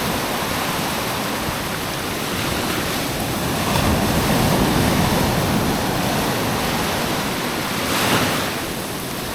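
Black Sea surf washing onto a sandy beach in slow swells, with wind on the microphone; one wave surges louder about eight seconds in.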